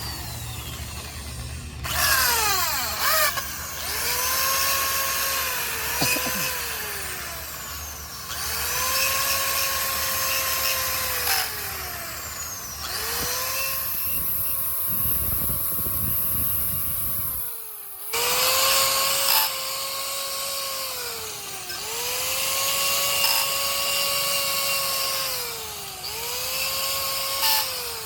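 Handheld electric power tool, drill-type, run in repeated short bursts: its motor whine comes up to a steady pitch, holds for two to three seconds, then drops away as the trigger is released, about seven times over.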